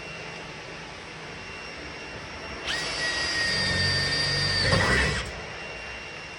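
A high-speed power tool runs for about two and a half seconds, starting a couple of seconds in: a steady high whine over a hissing rush. The whine dips and wavers just before it stops, as if the tool is loaded.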